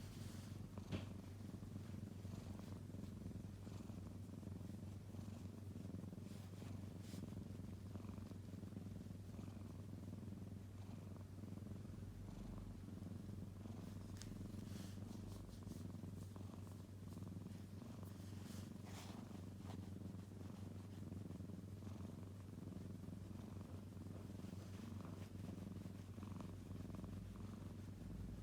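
Kitten purring steadily, a low even rumble, with a few faint clicks and rustles.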